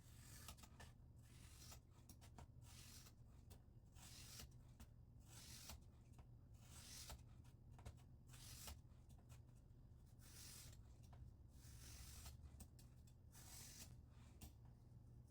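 A scissor blade held in a guided sharpener's holder and drawn in even passes across a wet sharpening stone. It makes faint scraping swishes about once every second or so, with a few light ticks in between.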